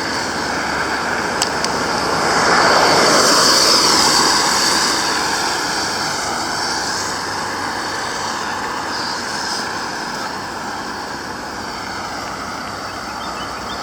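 Road traffic noise, with one vehicle passing close by about two seconds in. Its sound swells and drops in pitch as it goes by, then fades back into the steady traffic.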